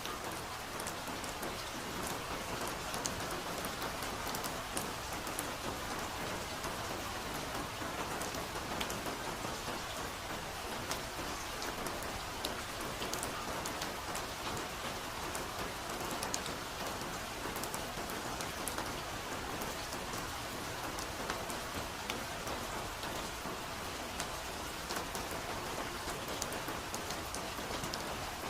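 Steady rain falling, a dense even patter with many individual drops ticking.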